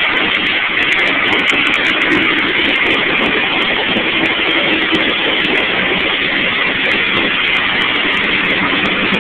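Twin-turbo Buick Grand National engine running loudly and steadily, with no revs rising or falling.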